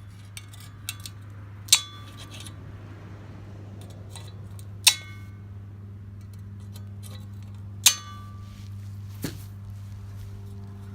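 Bolt cutters snapping through the steel rivets of an old machete: three sharp metallic snaps about three seconds apart, each leaving the metal ringing briefly, and a fainter clink near the end. A steady low hum runs underneath.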